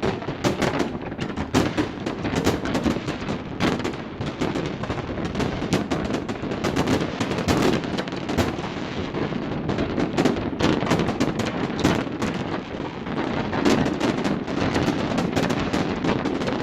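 Fireworks display going off in a continuous barrage: many rapid, overlapping bangs with no break.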